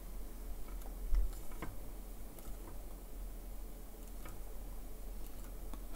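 Faint, irregular small clicks and taps of tools and small parts handled on a workbench, a few scattered through, over a steady low hum.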